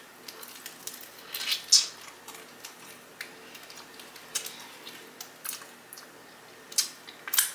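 A person chewing a seasoned chicken wing with the mouth closed: scattered wet mouth clicks and smacks, with louder ones about two seconds in and near the end.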